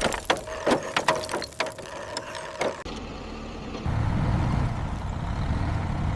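A quick run of metallic clicks and clanks, like a ratchet or mechanism being worked, for about three seconds. A steady low vehicle engine rumble sets in about four seconds in.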